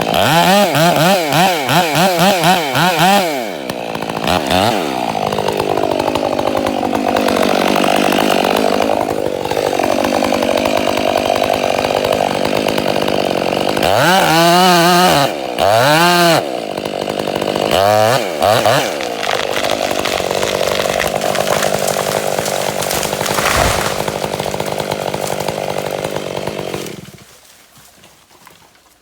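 Chainsaw revving in quick repeated bursts, then running at full throttle cutting through wood, its pitch sagging and recovering under load. It is revved in short bursts again in the middle, goes back to cutting, and drops away sharply near the end.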